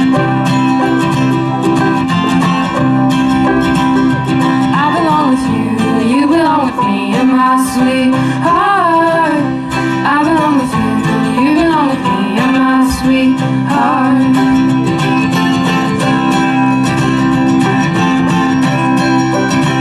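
Acoustic bluegrass band playing live: steady acoustic guitar strumming, with a gliding lead melody line from about five seconds in to about fourteen seconds in.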